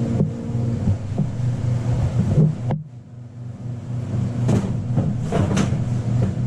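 Steady low machine hum, with a brief drop-out about three seconds in, followed by a few short knocks.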